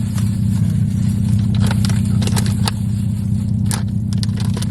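Steady low hum of a car's engine idling, heard from inside the cabin, with a few small rustles and clicks over it.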